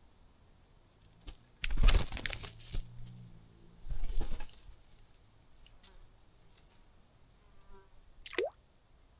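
A small bird splashing and fluttering its wings in a bird bath, in two bursts about two seconds apart. Near the end comes a short note sliding down in pitch.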